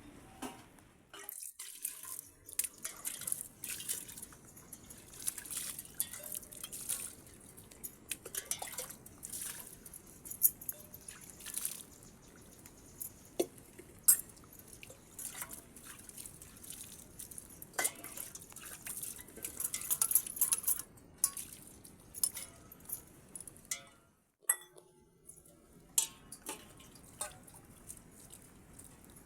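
Water dripping irregularly: many sharp drips and small clinks with uneven gaps, over a faint hiss, briefly dropping away twice.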